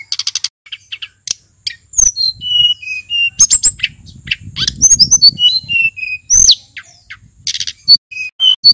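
Male sulingan gunung, a mountain blue flycatcher, singing in varied phrases of clear, high whistled notes, many sliding down in pitch, mixed with short sharp chips. A faint low rumble sits under the song in the middle.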